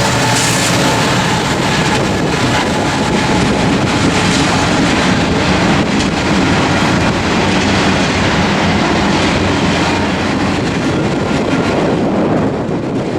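A train running: a steady, loud rumble and rattle with an engine hum underneath, cutting off abruptly at the very end.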